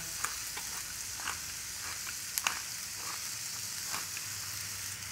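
Zucchini, grape tomatoes and olives sizzling in a hot stainless steel sauté pan as they brown: a steady hiss with a few scattered pops and crackles.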